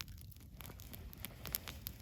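Wood fire crackling: irregular sharp pops and snaps over a low rumble of burning.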